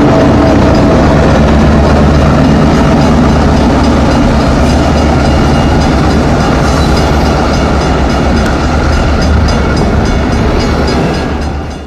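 A train rolling past close by: a steady low rumble with a diesel-engine drone, and a regular clicking of wheels over rail joints in the second half. It fades out sharply at the very end.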